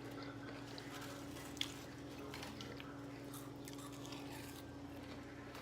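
Quiet room tone: a steady low hum with scattered faint clicks and one small tick about a second and a half in.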